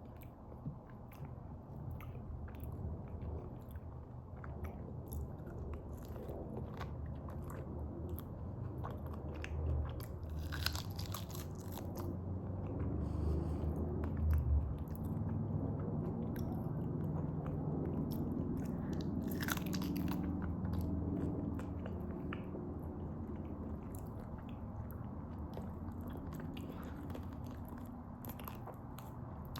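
Close-up eating sounds: chewing and biting of fufu and goat meat in soup, with wet mouth noises and small clicks. It grows louder toward the middle, with a couple of sharper bursts of noise.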